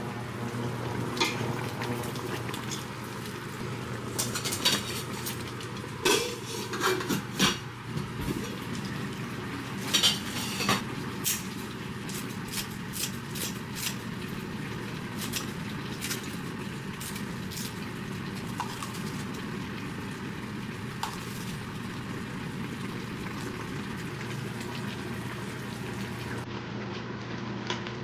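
Kitchen utensils and dishes clinking and knocking in short irregular strokes during cooking, busiest in the first half, over a steady low hum.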